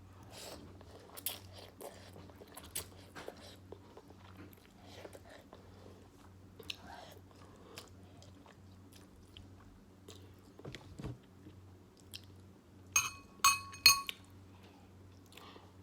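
Close-miked chewing and mouth sounds of someone eating beef ramen noodles, with many small clicks. Near the end come three loud ringing clinks, like a utensil striking the bowl.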